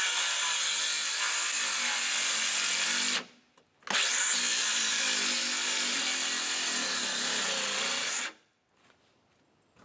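Power drill running under load in two long runs, its motor pitch wavering. It stops a little past three seconds in, starts again a moment later and stops for good about eight seconds in.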